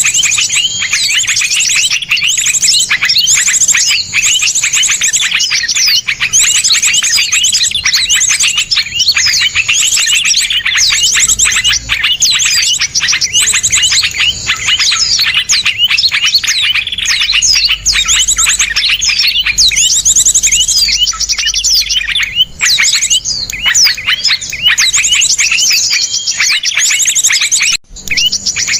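Several small songbirds singing in a dense, continuous stream of rapid trills and sharp, fast-repeated bursts of notes, coarse and tightly packed.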